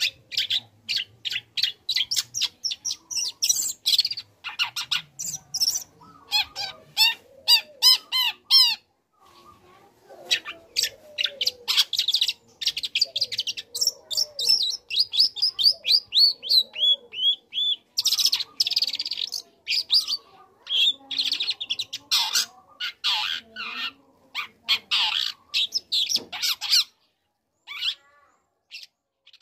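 Young long-tailed shrike (cendet) singing a fast, varied song of harsh chattering notes and rapid runs of short repeated whistles, pausing briefly about nine seconds in and stopping near the end.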